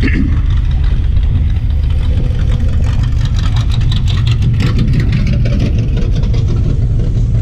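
Steady low rumble of a slowly moving vehicle's engine and road noise, with wind buffeting the microphone and a spell of crackling clicks about midway.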